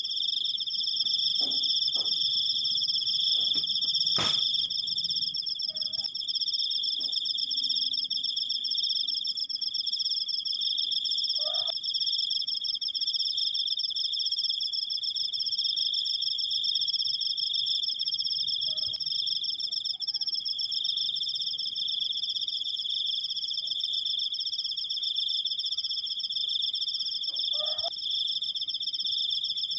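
Crickets trilling continuously: one long, unbroken high-pitched trill at two steady pitches. There is a single sharp click about four seconds in.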